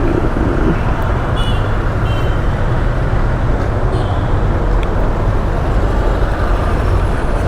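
Steady city road traffic noise, the engines of cars and auto-rickshaws running close by.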